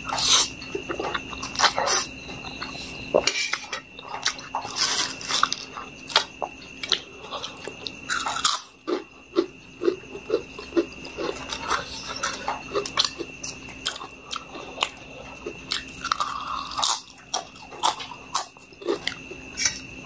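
Close-miked eating sounds: crunching potato chips and chewing Maggi noodles, with many sharp, irregular crackles and wet mouth sounds.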